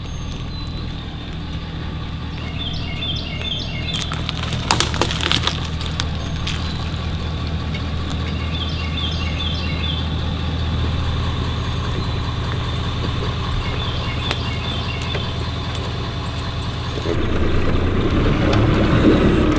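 A motor running steadily, which gets louder and rougher near the end. Over it, a bird repeats a short group of high chirps every few seconds, and there are a few sharp clicks about five seconds in.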